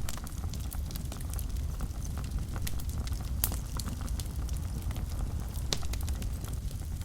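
Wood fire burning in a fireplace: a steady low rumble of flames under irregular crackles and pops. Two louder pops stand out, one about halfway through and one near the end.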